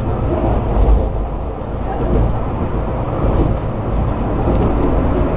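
Penang Hill funicular train car running downhill: a steady low rumble.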